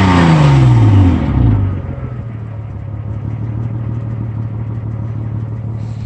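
Honda Legend KA9's 3.5-litre V6 engine coming down off a rev, the pitch falling quickly over the first second and a half, then settling into a steady idle.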